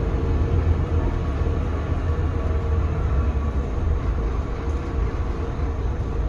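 Scania K320CB city bus heard from inside the cabin while under way: its Scania DC9 five-cylinder diesel running steadily, with a heavy low rumble, a faint steady hum above it and road noise.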